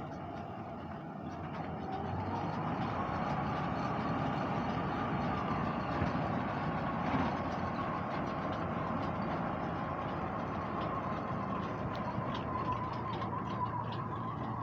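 Farm tractor engine running steadily, getting louder about two seconds in and then holding, with a faint steady whine above it.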